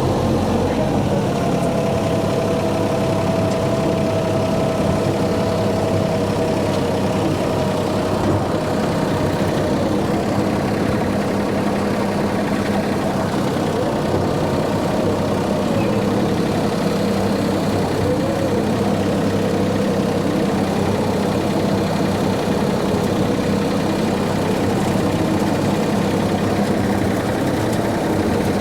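Tractor engine running steadily while driving a brush hog rotary mower through weeds.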